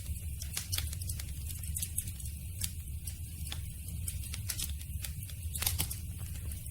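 Campfire burning: wood crackling with irregular sharp pops, several a second, over a steady low rumble.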